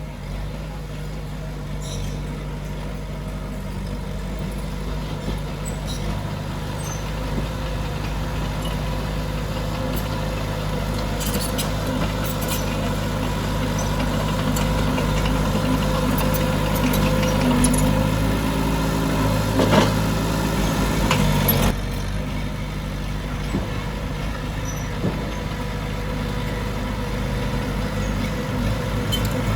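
Heavy diesel earthmoving machinery working: a steady engine drone that builds in loudness, with metallic clanks and rattles a little before halfway and again about two-thirds of the way through, then eases back.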